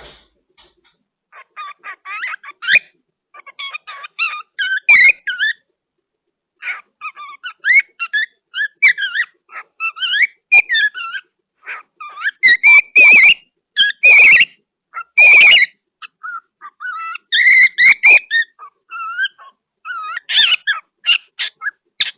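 Cockatiel chattering and whistling: a long run of short chirps and warbling notes in quick bursts, with pauses between them, loudest about halfway through.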